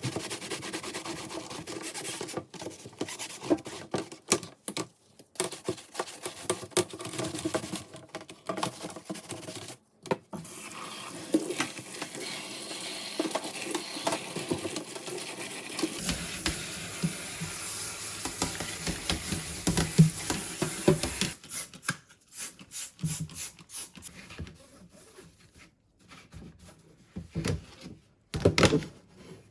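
Scrubbing and rubbing while cleaning kitchen ventilation fan parts, with small clicks and knocks, in several short segments that change abruptly. After about two-thirds of the way through it thins out to scattered knocks.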